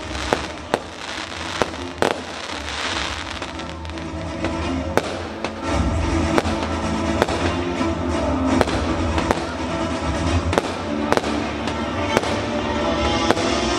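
Fireworks display: a quick, irregular run of sharp bangs from bursting shells, with music playing alongside. About six seconds in the music fills out with a low bass and gets louder.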